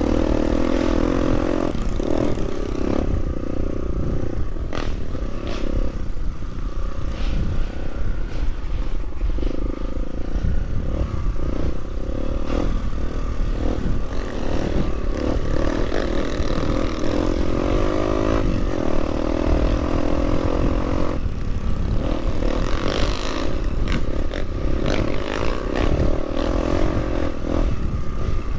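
Trail motorcycle engine running with its revs rising and falling over rough ground, with scattered clattering knocks.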